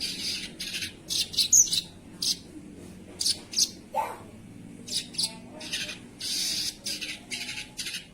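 Spiderhunter (sogok ontong) calling: a series of short, high, scratchy calls in irregular quick runs, with one longer call near the end.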